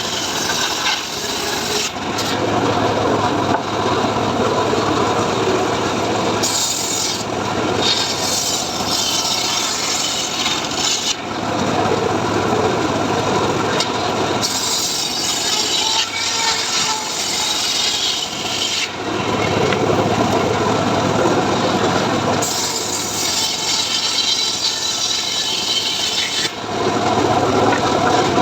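Homemade 'srekel' sawmill rig sawing mahogany logs, its engine running throughout. The blade bites into the wood in three passes of about four seconds each, the cutting noise rising harsh and hissy over the engine, then easing between passes.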